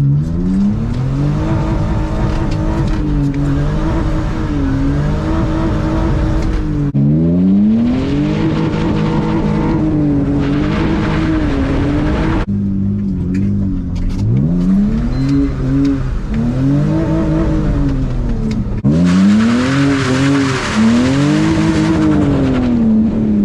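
BMW E46 325ci's inline-six with a header-back exhaust revving up and down through repeated hard pulls, the revs flattening at the top of several of them where the engine cuts power, which the driver can't explain. Tyre and wet-road hiss rise during two of the pulls.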